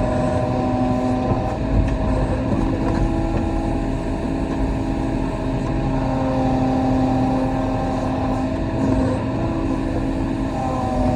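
Kobelco SK35 mini excavator running steadily under load, with steady tones from the engine and hydraulics that step up and down in pitch every few seconds as the machine works.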